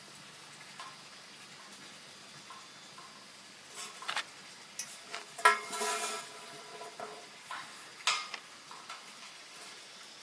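Metal pieces knocked together: a few sharp clanks around the middle, the loudest about five and a half seconds in ringing on briefly with a metallic tone, then another clank about eight seconds in.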